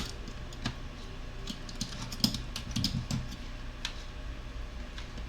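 Irregular small clicks and taps of plastic laptop parts and a cable being handled inside an opened laptop case.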